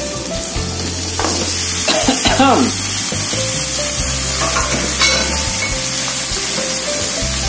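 Raw chicken pieces sizzling as they are dropped into hot oil and ground spice paste in a wok. The frying hiss gets louder about a second in as more pieces land.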